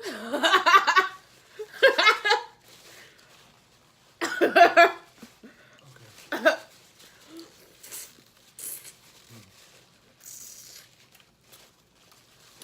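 A person laughing in about four bursts, the first the longest, fading out about halfway through, followed by faint scattered clicks and rustles.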